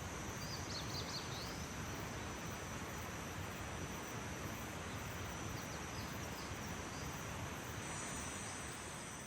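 Outdoor early-morning ambience: a steady background rush with a continuous high-pitched insect trill, a second high trill joining near the end. A few faint, brief bird chirps come near the start and again around the middle.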